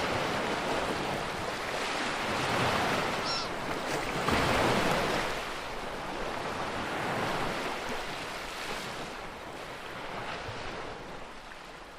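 Sea waves washing in: a steady rush that swells and ebbs a few times, then slowly fades out.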